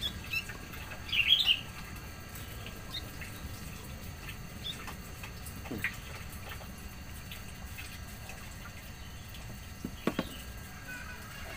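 Small birds chirping in short high calls, loudest about a second in, then only scattered faint chirps and ticks, with a short knock near the end.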